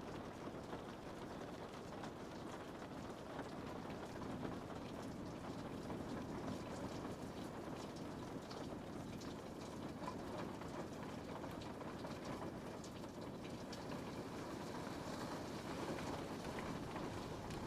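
Rain on a window: a steady rain hiss with many scattered taps of single drops striking the glass.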